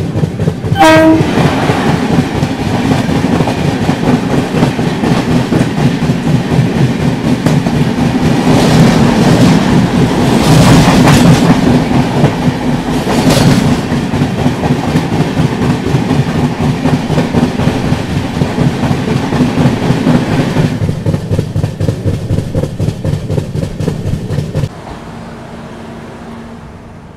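Express passenger train running fast, heard from on board: a loud rumble with rapid wheel clatter over the rail joints. A short horn blast sounds about a second in. The rattle swells twice in the middle and drops away sharply near the end.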